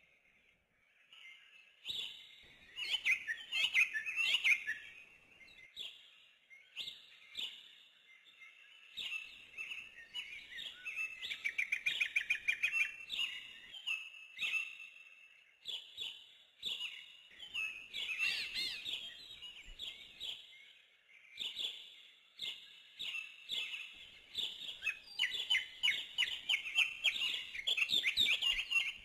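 Small birds chirping and twittering, with fast trills coming in repeated runs.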